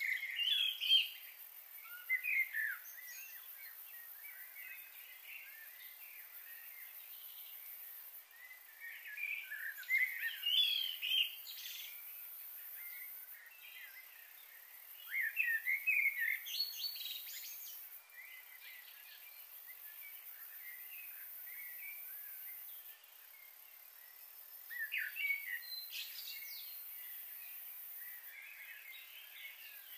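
Small birds chirping in short clustered bursts, four or so spread through the stretch, over a faint steady high hiss.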